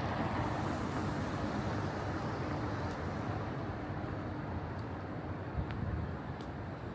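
City street ambience: a steady rumble of traffic, a little fuller at the start, with a few faint ticks.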